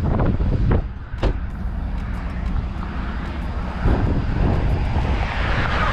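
An engine running with a steady low rumble, with a few sharp knocks in the first second or so and a louder rush of noise building near the end.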